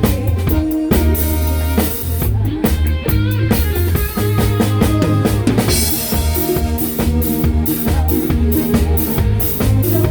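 A rock-pop band playing a song live: a drum kit keeping a steady beat over sustained bass notes and other pitched instruments, with a cymbal crash about six seconds in.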